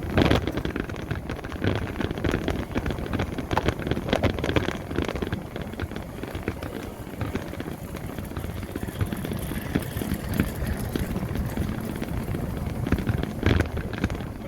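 Wind buffeting the microphone and road noise from a moving electric motorbike, with a loud gust of wind noise at the start.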